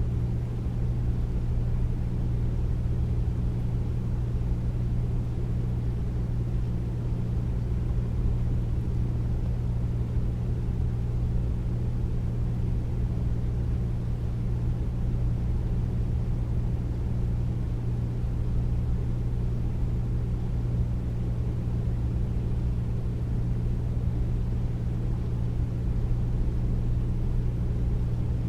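Air conditioner running steadily: a constant low hum with a soft rush of air over it, unchanging throughout.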